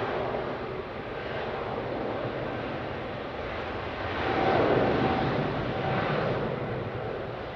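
Jet airliner engines: a steady rush with a faint whine, swelling to its loudest about four and a half seconds in and easing off near the end.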